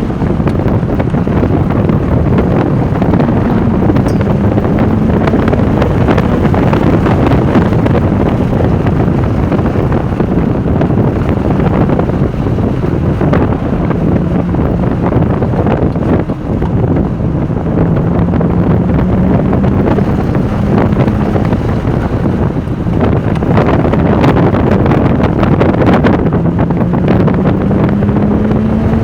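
Heavy wind buffeting on the microphone over a Porsche 996 Turbo's twin-turbo flat-six running at speed, its pitch rising and falling with the throttle. The engine note climbs steadily in the last few seconds.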